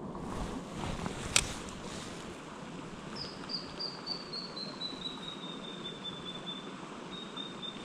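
A bird's trill: a quick run of short notes falling slowly in pitch over about four seconds, starting about three seconds in. It sits over a steady background rush, with one sharp click about a second and a half in.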